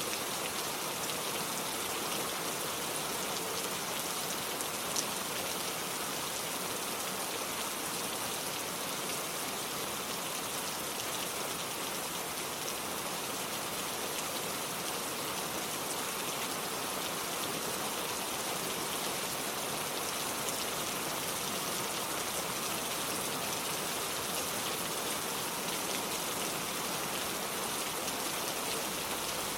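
Steady rain falling on a wooden porch and on the surface of a lake, an even hiss with scattered drop ticks.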